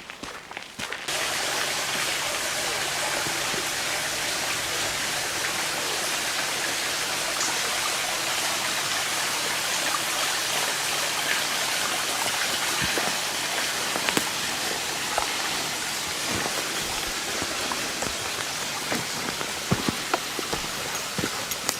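Steady, dense hiss of falling water, like heavy rain or a waterfall, starting abruptly about a second in, with a few scattered sharp ticks near the end.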